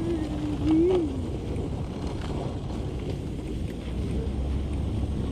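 Steady wind noise and rumble of a sled being towed over snow behind a truck. A voice holds a wavering note briefly at the start.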